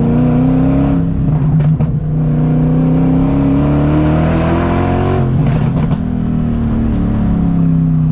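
Straight-piped BMW M60 V8 in an E30 pulling hard, its note rising twice, each pull broken by a short crackly gap about one and a half and five and a half seconds in, then falling as the car slows.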